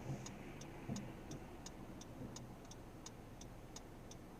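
A car's turn-signal or hazard indicator ticking steadily inside the cabin, about three clicks a second, over a faint low engine and road hum.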